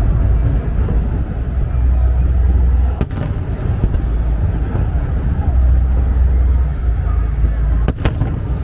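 Fireworks display going off: a continuous low rumble of bursts, with sharp cracks about three seconds in and again near the end.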